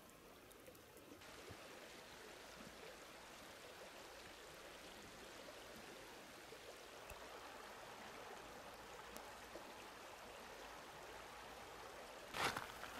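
River water flowing over the riverbank, a faint steady rush. Near the end, loud crunching footsteps begin.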